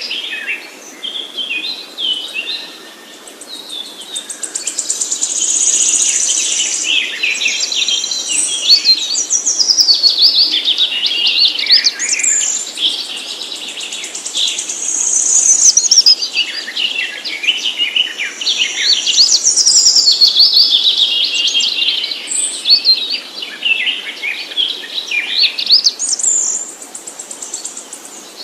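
Songbirds singing: rapid high-pitched chirps and trills in long phrases that swell and fade every several seconds.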